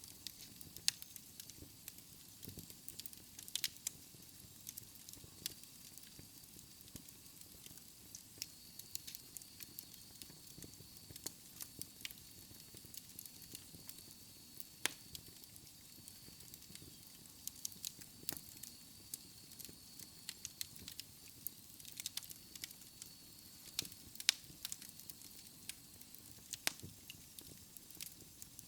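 Wood fire in a fireplace crackling, with irregular sharp pops and snaps of burning logs over a soft low rush of flames.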